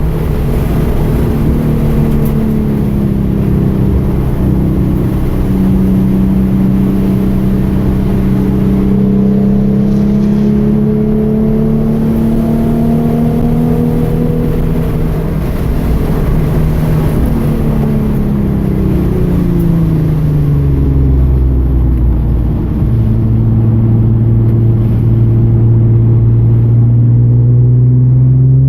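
2013 Hyundai Genesis Coupe's 3.8-litre V6 pulling under load, its note climbing slowly for several seconds, dropping away as the car slows about two-thirds of the way through, then climbing again near the end. A steady hiss from the wet track runs underneath.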